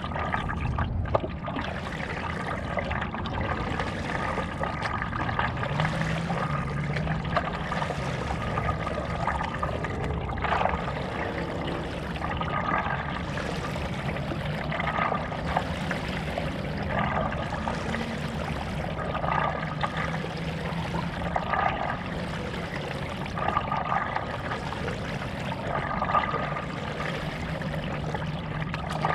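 Stand-up paddleboard paddle strokes: the blade dipping and pulling through lake water with splashing and dripping, about one stroke every two seconds, over a steady low hum.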